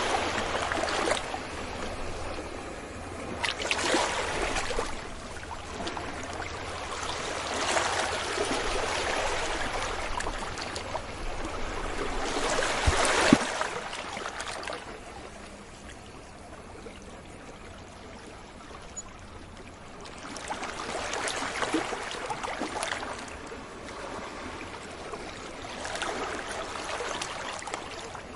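Sea waves breaking and washing up a beach, each swell of surf rising and fading every few seconds, with a quieter lull between sets about halfway through.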